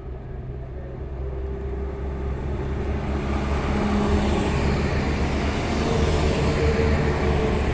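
Passenger train moving through the station, a steady hum with rumble that grows gradually louder.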